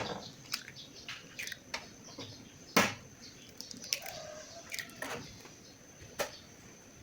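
Scattered light clicks and knocks, about a dozen at irregular intervals, the loudest knock about three seconds in.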